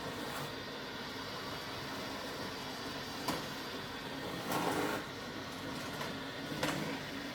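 Samsung VR50T95735W robot vacuum running steadily as it tries again to drive onto its charging dock, with a few short knocks about three, four and a half and six and a half seconds in. It keeps failing to dock, which the owner puts down to a broken sensor.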